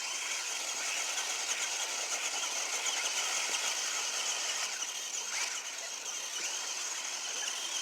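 Toy radio-controlled monster trucks driving, their small motors and gears giving a steady high-pitched whine.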